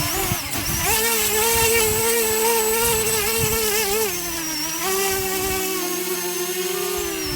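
Parrot Anafi quadcopter's motors and propellers whining at close range during a hand catch. The pitch steps up about a second in and drops again about four seconds in.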